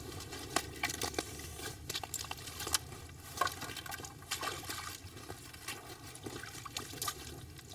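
Water and slush sloshing and trickling at an ice-fishing hole, with scattered small irregular clicks and knocks.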